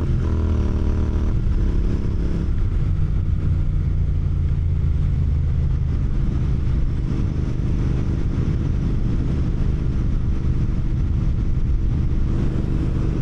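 Royal Enfield GT 650's 648 cc parallel-twin engine heard from the saddle while riding. Its revs climb and break at a gear change in the first couple of seconds, then it runs steadily at cruising speed.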